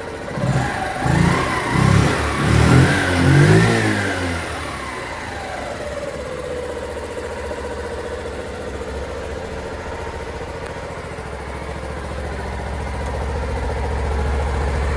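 Honda Little Cub's 50cc four-stroke single-cylinder engine blipped four times in quick succession, each rev rising and falling, then settling back to a steady idle.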